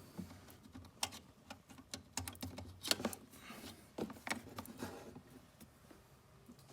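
A run of sharp plastic clicks and taps as a remote cord's plug is handled and pushed into its socket on a control board. The loudest click comes about three seconds in, and the clicks thin out near the end.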